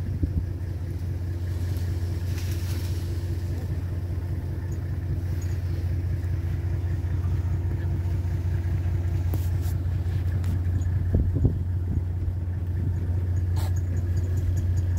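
A vehicle's engine idling steadily, giving a constant low hum. A couple of short knocks come about eleven seconds in.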